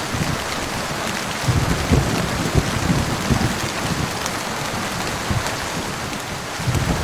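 Heavy rain falling steadily, with a low, uneven rumble of thunder underneath.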